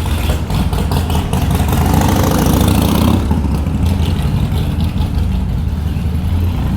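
Harley-Davidson motorcycle engine running with a steady low sound, loudest about two to three seconds in.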